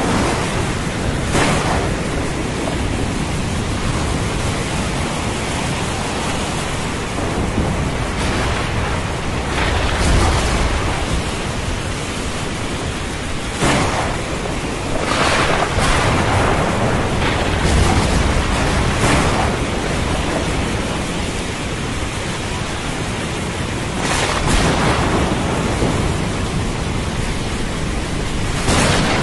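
Thunderstorm: steady heavy rain with thunder. There are low rumbles about a third and again about two thirds of the way in, and several sharper cracks are scattered through.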